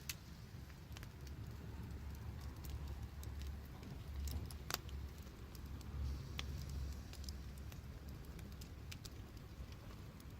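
Wood fire crackling, with irregular sharp pops and snaps over a low steady rumble of burning.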